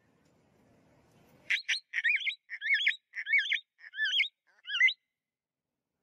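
A bird calling: two short sharp notes, then five clear, wavering whistled calls at a steady pace.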